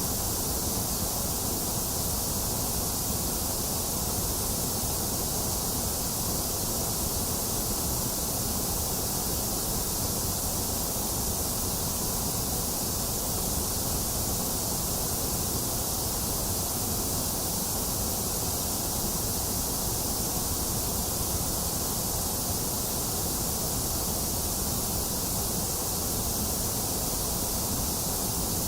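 Steady electronically generated white noise: a constant, unchanging hiss with no events and no change in level.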